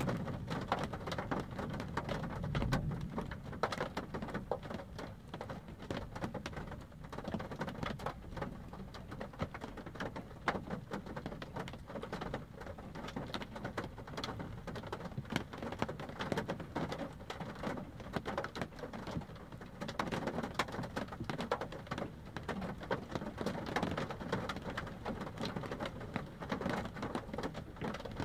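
Rain striking a car's windshield and roof, heard from inside the car: a steady, dense run of irregular drop taps, with a low rumble of thunder about two to three seconds in.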